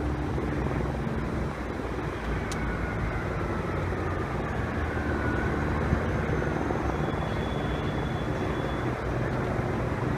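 Helicopter running steadily: a continuous engine and rotor sound with an even low hum beneath.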